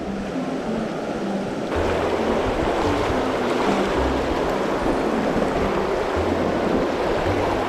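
Mountain stream water rushing steadily, growing louder about two seconds in.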